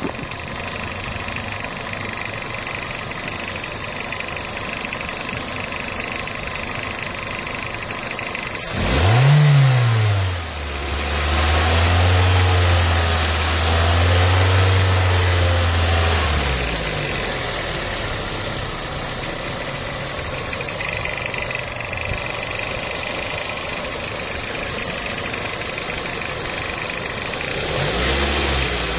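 2007 Toyota Corolla LE's four-cylinder engine running with a ticking noise, mostly at idle: it is blipped about nine seconds in, held at higher revs for about five seconds, drops back to idle, and rises again near the end. The ticking is taken by the owner to sound like a belt.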